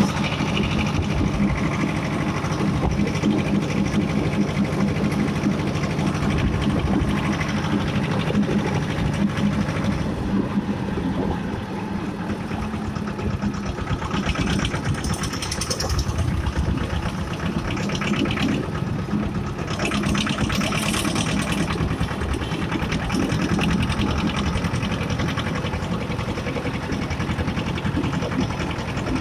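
Escort 335 tractor's diesel engine running steadily at road speed, a fast, even chugging. A brighter hissing noise rises over it twice about halfway through.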